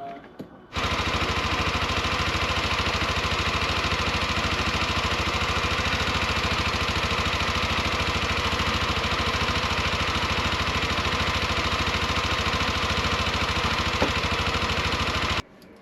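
Yamaha NMAX scooter's single-cylinder four-stroke engine running at a steady idle. It cuts in abruptly about a second in and stops suddenly near the end.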